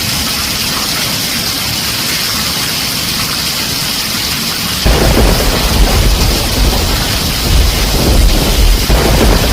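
Heavy rain drumming steadily on a tin roof. About halfway through, a loud low rumble of thunder breaks in and keeps rolling, swelling and easing, to the end.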